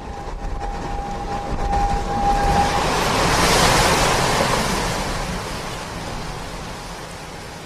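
A rushing noise like breaking surf that swells to a peak about three and a half seconds in and then slowly fades. Under the first part runs a steady high tone that grows louder and stops just under three seconds in.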